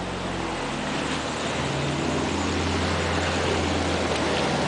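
Motor vehicle running: a steady low engine hum with road noise, slowly growing louder as it picks up speed.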